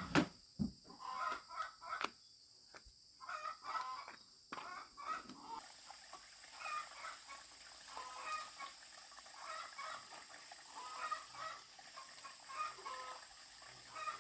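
Chickens clucking, with many short calls on and off throughout. A couple of sharp knocks right at the start, and a steady high-pitched buzz underneath.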